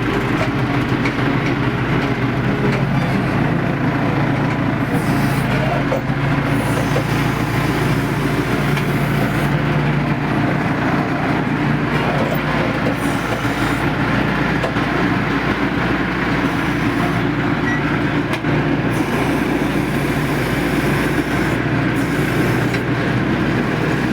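Heavy diesel machinery running steadily, with a constant low engine note under continuous mechanical noise.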